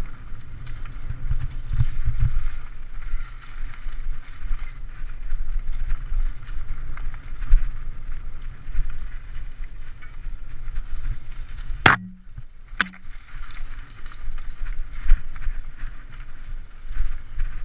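Cannondale mountain bike ridden over singletrack: a continuous rough rumble of tyres, rattling and wind on the microphone, jolting unevenly with the terrain. The sound cuts out for about a second about two-thirds of the way through.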